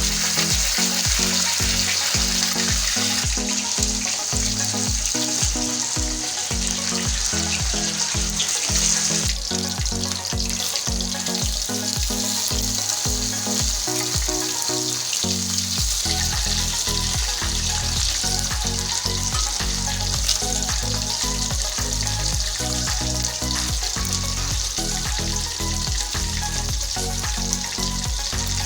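Katla fish pieces deep-frying in hot oil with a steady sizzle and crackle, over background music with a regular beat.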